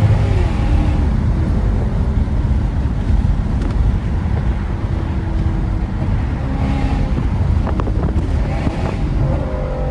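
Lexus GS430's 4.3-litre V8 running with its catalytic converters removed: a steady low exhaust drone while driving, with wind and road noise.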